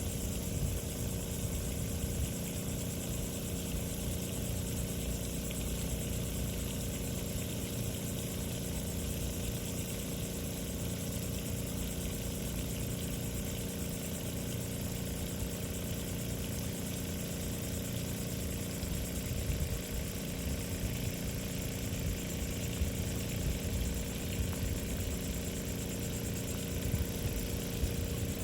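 A steady engine hum, even in level, with a few low steady tones in it.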